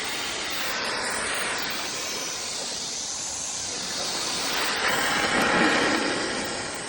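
Boiler blowdown on a 1/8-scale live steam locomotive: steam and water hissing out steadily to empty the boiler after a fault with the water. The hiss swells louder about five seconds in and eases near the end, and it plays at double speed.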